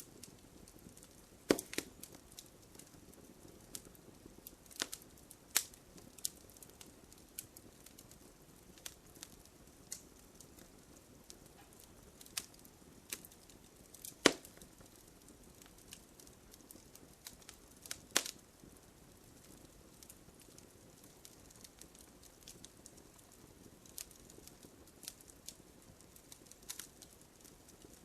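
Wood campfire crackling: a low steady hiss with irregular sharp pops and snaps of burning wood, the loudest pops about a second and a half in, near five and a half seconds, around fourteen seconds and around eighteen seconds.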